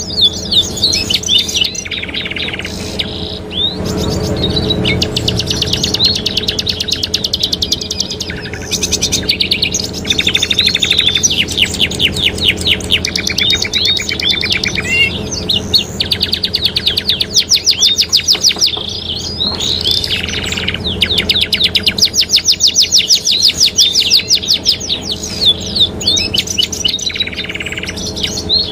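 Domestic canaries singing continuously: long rapid trills and rolls of fast repeated high notes, switching from one tour to the next every second or two. A steady low hum runs underneath.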